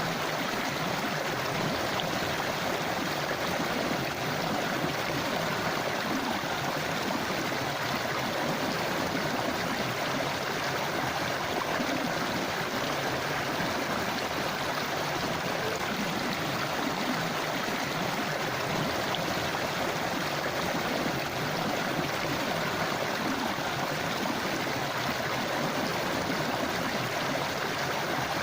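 River water flowing over stones, a steady rushing and burbling that does not change.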